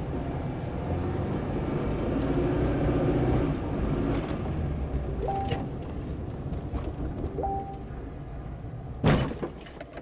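Car's engine and road rumble heard from inside the cabin, broken by one sharp, loud bang about nine seconds in: the impact of a crash.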